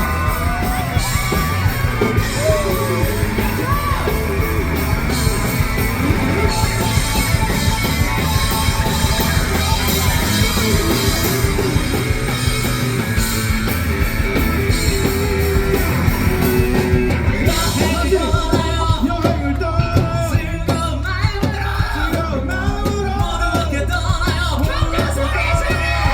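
Rock band playing live through a PA: drums, bass and electric guitars, with a singer's voice over them.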